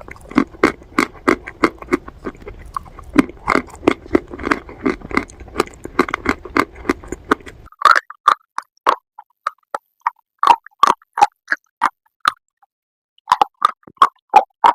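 Close-miked crunching and chewing of brittle baked clay, a fast run of sharp crunches several a second. About halfway through, the background hiss drops away and the crunches come more spaced out.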